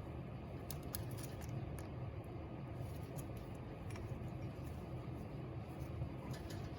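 Steady low hum with faint scattered clicks and light scratching, a small cluster of clicks about a second in and another near the end.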